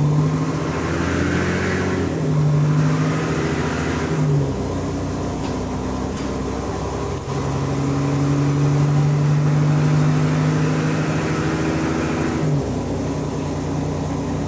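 Bus diesel engine with an exhaust leak running under load, a loud steady drone whose note shifts up or down several times as the bus pulls and changes speed.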